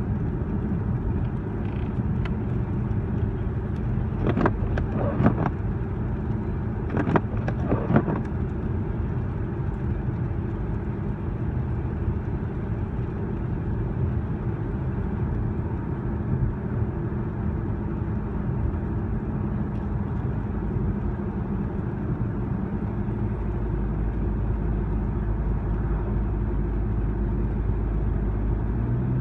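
Car running along the road, heard from inside the cabin: a steady engine and road hum, with a few sharp clicks about four to eight seconds in. The low rumble grows stronger near the end.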